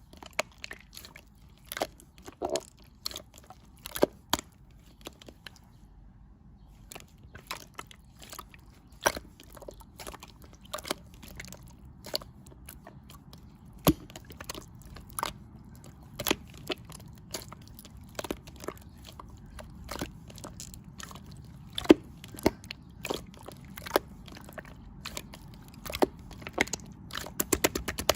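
Irregular crisp clicks and crunches, about one or two a second, with a short lull about six seconds in and a quick run of them near the end.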